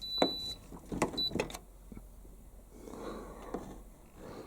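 Hoover AquaVision tumble dryer's control panel beeping as it is set to a programme: a high beep about half a second long at the start and a short one about a second in, mixed with several plastic clicks from the dial and buttons.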